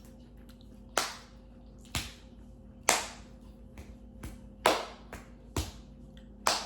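Sharp hand taps struck in an uneven beat, roughly once a second, with fainter taps in between, like someone drumming with their hands.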